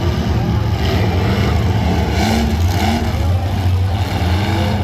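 Demolition derby cars' engines running loud and steady, with revs rising and falling.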